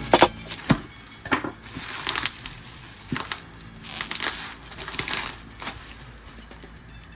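Packaging crinkling and rustling in irregular bursts as a new exhaust header pipe for an IZH motorcycle is unwrapped; the loudest crackles come in the first second.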